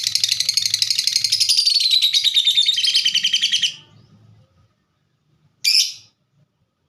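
Lovebird singing a long, fast chattering trill of rapid clicks, the 'ngetik' (typing) song style, which breaks off a little over halfway through; one short sharp chirp follows near the end.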